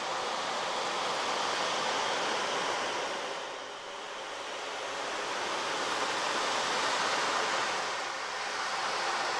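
Steady rushing noise that swells and eases like surf, dipping about four seconds in and again near the end.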